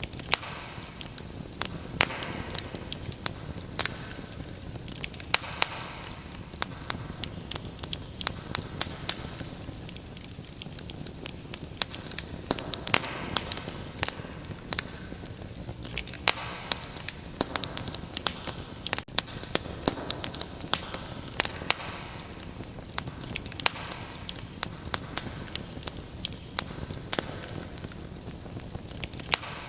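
Fireplace fire crackling, with many irregular sharp pops and snaps over a low steady rumble of the flames.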